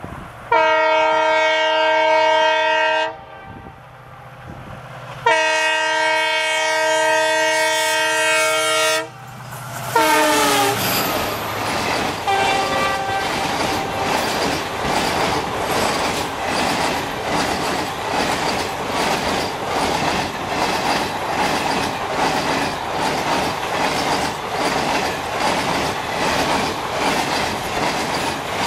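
Diesel locomotive's multi-tone air horn sounding two long blasts, then a shorter one that drops in pitch as the train speeds past. A steady run of rhythmic wheel clickety-clack follows as the coaches roll by at speed.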